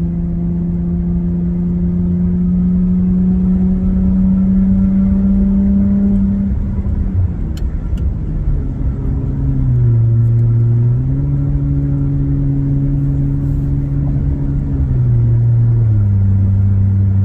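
2024 Nissan Frontier's 3.8 L V6 droning through a straight-piped exhaust, heard from the cab while accelerating toward 80 mph on the highway. The drone climbs slowly in pitch, drops about six to seven seconds in, then steps down and back up around ten seconds and settles lower near the end as the revs change.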